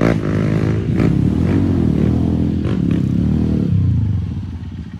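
Trail motorcycle engine running under throttle, then easing off to a quieter, rapidly pulsing idle about three-quarters of the way through.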